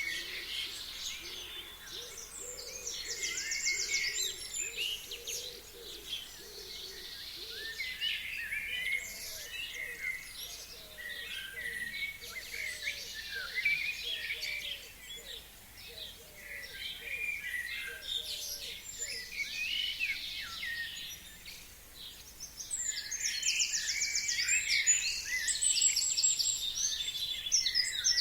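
Several forest songbirds singing, with many high chirps and quick trills, densest and loudest in the last few seconds. Underneath, a faint low call repeats about once a second and stops about two-thirds of the way through.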